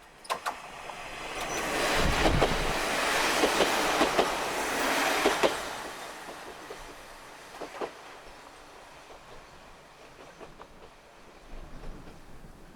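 A Kominato Railway diesel railcar train passes close by. Its wheels click over the rail joints, and the sound builds over the first two seconds, stays loud until about five and a half seconds in, then fades, with a few last clicks later on.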